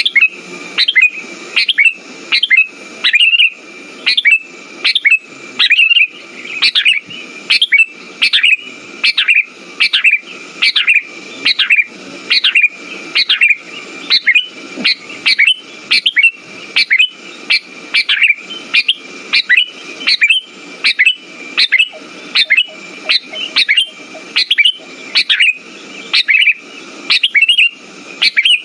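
Sooty-headed bulbul (kutilang) calling over and over, short sharp notes repeated about twice a second without a break, over a faint steady high tone.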